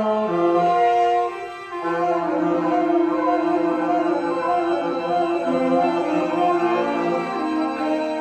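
Free jazz ensemble of saxophones and violin playing long held notes together, several pitches overlapping and shifting slowly, with a short drop in loudness about a second and a half in.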